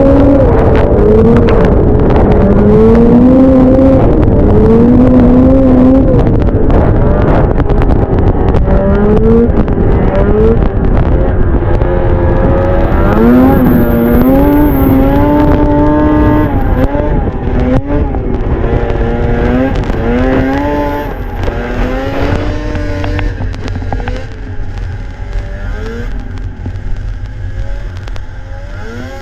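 Vintage two-stroke snowmobile engine revving up and down over and over while riding, its pitch climbing and dropping every second or two. It gets quieter in the last third.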